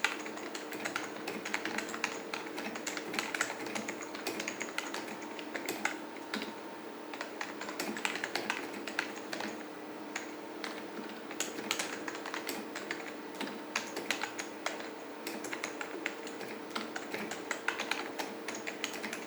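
Continuous typing on a KBParadise V60 mini keyboard with oil-lubed Matias silent linear switches (ALPS clones): a quiet, irregular patter of soft keystrokes with no switch rattle.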